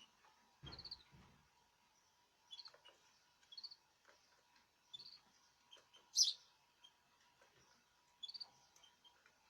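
Small caged birds chirping: short high chirps every second or so, with one louder, sharper call about six seconds in. A couple of soft low thumps come near the start.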